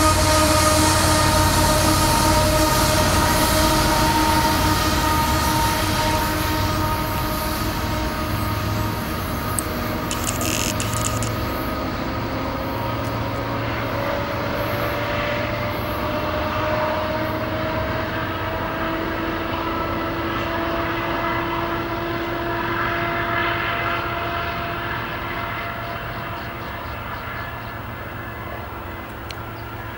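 Freight train of covered hopper cars rolling past on a curve, followed by its rear diesel locomotive, with steady ringing tones through the noise whose pitch slowly rises in the middle. The sound fades gradually as the train moves away, most clearly near the end.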